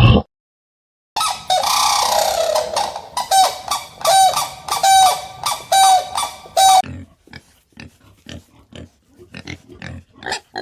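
An animal calling in a series of short, harsh, repeated calls, about one every half second for some six seconds, followed by fainter scattered short sounds.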